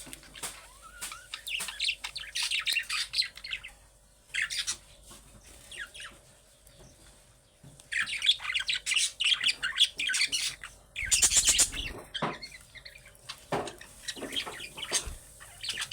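Budgerigars chattering and warbling in bursts of rapid, high chirps, with a quieter lull of a few seconds in the middle and a loud harsh burst about eleven seconds in.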